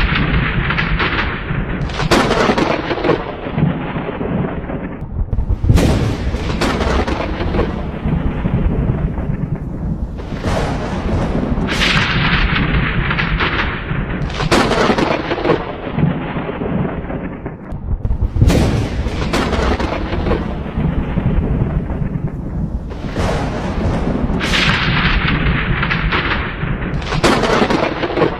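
Thunderstorm: a sharp thunderclap every few seconds, each fading into a long rumble, over a steady roar of rain.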